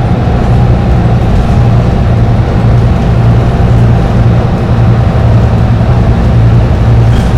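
Dennis Trident double-decker bus's diesel engine running steadily at highway cruising speed: a constant low drone that holds the same pitch throughout.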